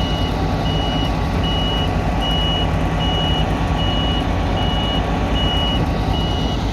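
Electronic warning beeper on heavy harvest machinery, sounding a steady single-pitch beep about once every 0.75 s, over a loud low rumble.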